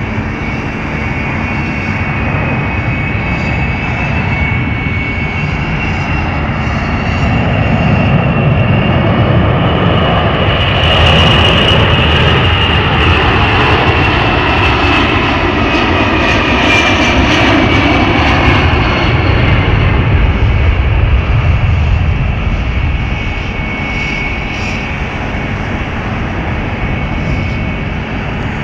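Boeing C-17A Globemaster III's four turbofan jet engines running, a loud roar with a high whine. The sound swells to its loudest about ten seconds in, and the whine drops in pitch as the aircraft passes, then the roar eases off near the end.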